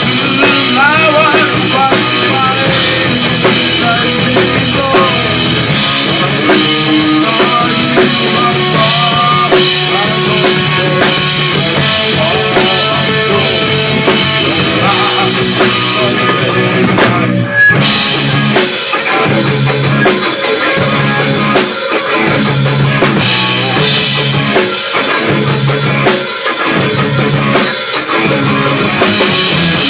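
Rock music played on a drum kit and other instruments, with a brief stop about two-thirds through before the beat comes back in.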